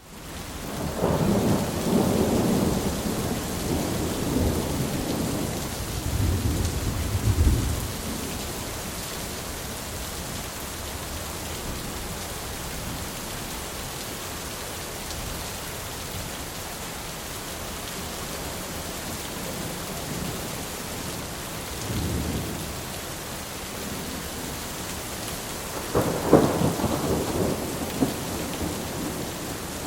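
Steady heavy rain with rolling thunder. A long low rumble builds over the first several seconds, a shorter rumble comes about two-thirds of the way through, and a sharper clap of thunder rolls on near the end.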